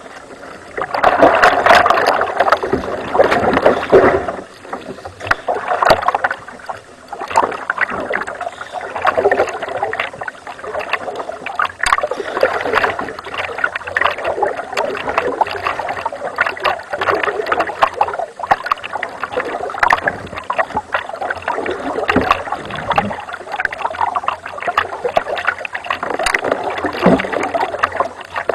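Water splashing and sloshing around a kayak in irregular bursts, loudest for a few seconds near the start.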